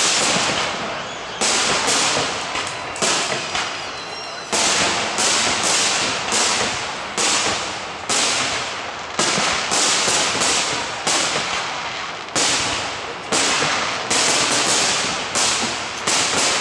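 Aerial fireworks shells bursting in rapid succession, about one or two sharp bangs a second. Each bang trails off over a second or so before the next.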